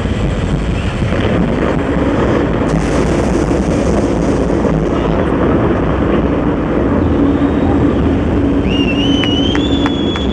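Live rock band in an arena, picked up by a handheld recorder as a loud, distorted wash dominated by bass rumble. Near the end a high sliding tone rises and holds, with evenly spaced sharp ticks.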